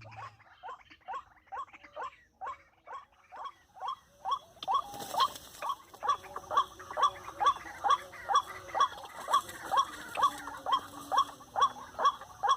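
Waterhen calling: a long, evenly repeated series of short, hooked call notes, about two and a half a second, faint at first and growing louder about four seconds in.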